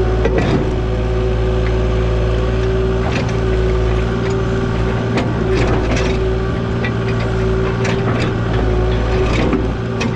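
Diesel engine of a compact earthmoving machine running steadily at a constant pitch, with scattered knocks and clanks over it.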